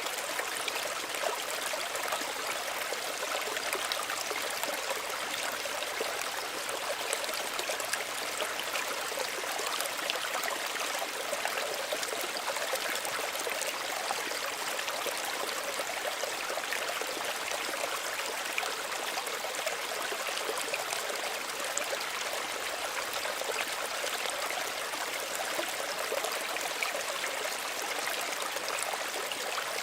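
Small stream running, a steady babble and trickle of water over stones.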